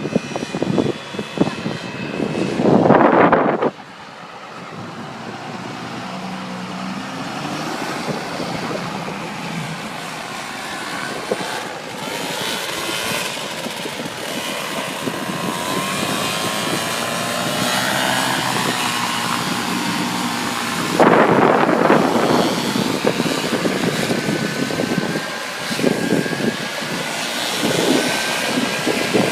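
Paramotor engines running as the pilots fly past, their pitch sliding up and down over gusting wind. Two loud rushes of wind noise hit the microphone, about three seconds in and again about twenty-one seconds in.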